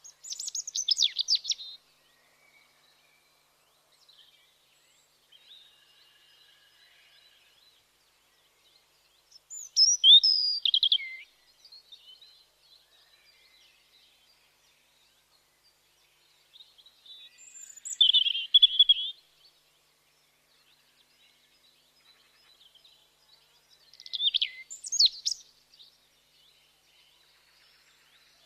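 A songbird singing in short, high-pitched phrases: four phrases, each about a second and a half to two seconds long, spaced roughly eight seconds apart, with faint chirps from other birds between them.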